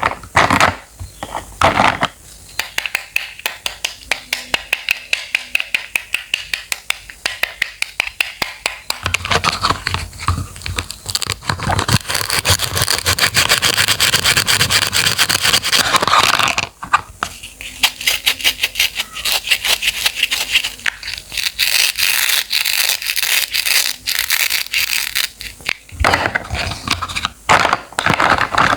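Knife cutting fruit or vegetables on a cutting board: rapid chopping strokes, several a second, with a stretch of denser, almost continuous scraping and crunching through the middle.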